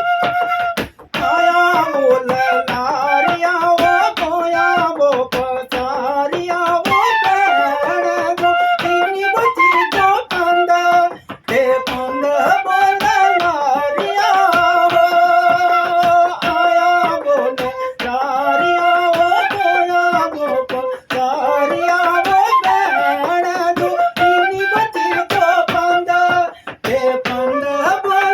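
Live folk music: a single ornamented melody line, from bansuri flute or singing voice, with long held notes and bends, played over quick, steady percussive taps.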